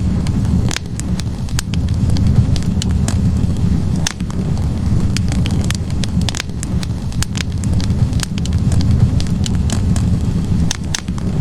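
Log fire burning in a fireplace: a steady low rush of flames with frequent sharp, irregular crackles and pops from the burning wood.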